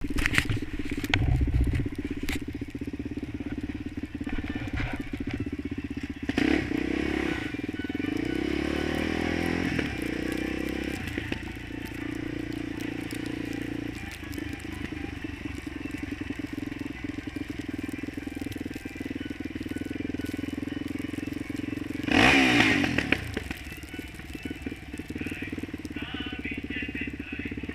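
Single-cylinder four-stroke sport quad ATV engine running, its revs rising and falling several times, with a short, loud blip of the throttle about four-fifths of the way through.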